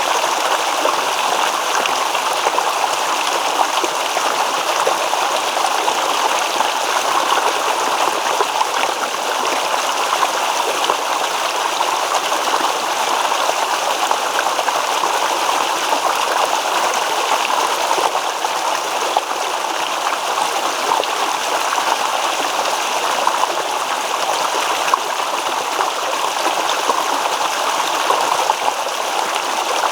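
Small stream babbling steadily over stones, a continuous rush of flowing water.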